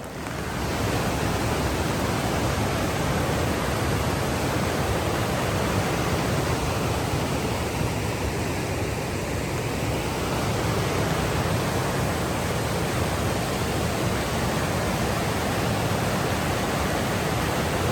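Steady rushing roar of a fast river's water, rising in over the first second and then holding even.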